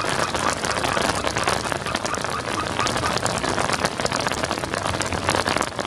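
Steady rain falling on a wet road: a dense, even hiss of many small drop impacts.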